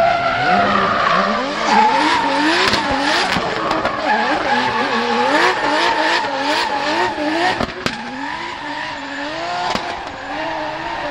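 Drift car engine revving hard, its pitch rising and dropping back about twice a second as the throttle is worked, with tyres screeching and skidding.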